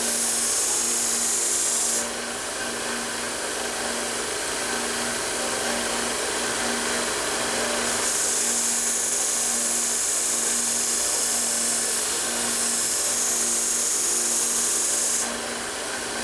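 Belt grinder running steadily while a steel knife blade is ground against a low-grit abrasive belt to set the bevel. The grinding hiss is loud for the first two seconds and again from about eight to fifteen seconds in, with lighter contact in between.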